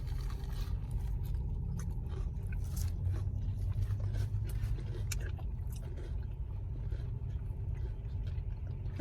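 Crunchy bites and chewing of a crispy fried chicken sandwich, heard as scattered short crunches over a steady low rumble.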